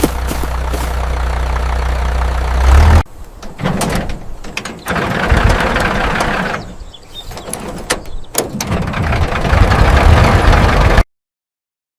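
Tractor engine running with a steady low hum, which swells and then cuts off about three seconds in. Uneven mechanical noise with clicks and short gaps follows, and it stops abruptly near the end.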